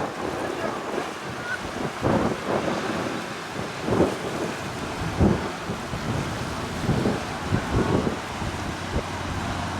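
Strong gusty wind buffeting the microphone in irregular loud low thumps, over a steady rush of waves.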